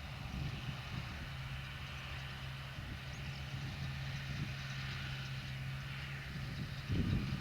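Massey Ferguson tractor's diesel engine running steadily at an even pitch while working a McHale baler, with a brief low rumble near the end.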